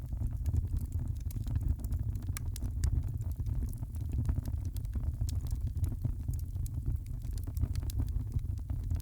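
Fire crackling in a fireplace: frequent, irregular small pops and snaps over a steady low rumble.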